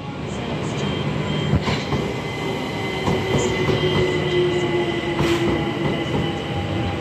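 London Overground Class 378 Electrostar electric train running past close by: a steady rumble of wheels on rails that swells over the first second, with a faint steady whine and a couple of sharp clicks.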